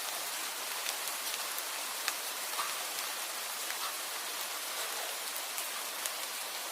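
Steady rain falling, an even hiss with scattered sharper individual drops ticking through it.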